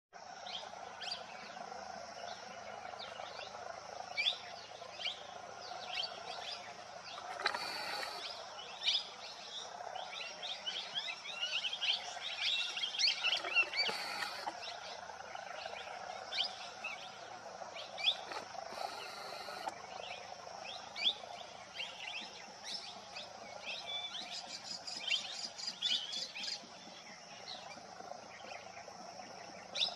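Birds chirping with many short, sharp, high calls in quick succession, over a steady high insect drone.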